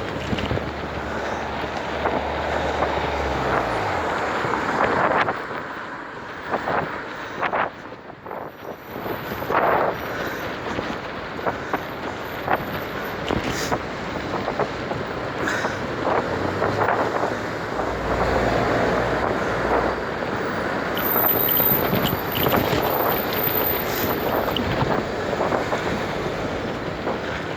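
Wind rushing over the microphone while riding a bicycle, mixed with road noise; it eases briefly about seven seconds in.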